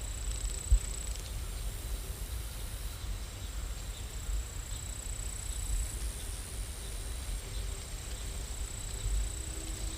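Steady rain ambience: an even hiss over a low rumble, with a faint high steady whine.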